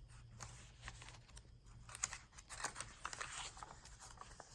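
Faint paper rustling with scattered light clicks as the pages of a handmade paper journal are handled and turned.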